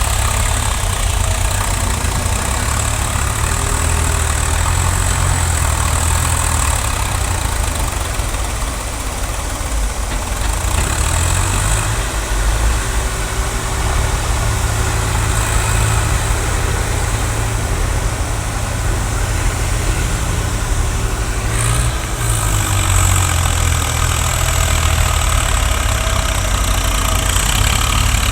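Tractor diesel engine running steadily at a low, even speed, with a brief knock about three-quarters of the way through.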